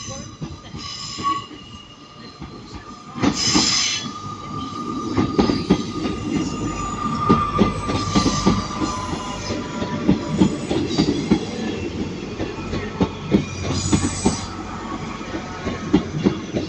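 Two-unit Class 158 diesel multiple unit running into the platform, its wheels clacking over rail joints with a steady high flange squeal over a low rumble; a sharp louder burst of squeal comes about three seconds in.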